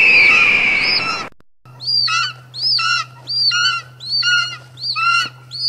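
Attacking birds' cries used as a sound effect: a loud rush of noise with high bird cries for about the first second, then after a brief break the same call repeats evenly, about three every two seconds, over a steady low hum.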